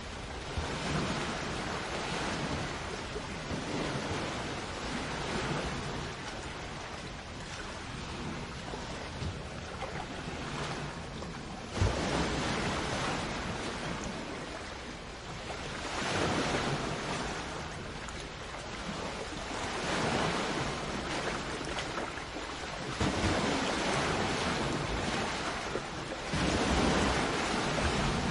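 Sea waves breaking and washing onto a shore, the surf swelling and fading every few seconds, with one sharp knock about twelve seconds in.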